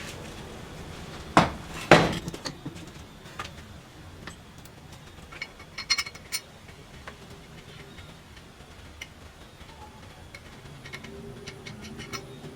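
Metal clanks and knocks in a workshop: two loud strikes about half a second apart near the start. Scattered lighter metal clinks follow, with a short run of ringing clinks around the middle.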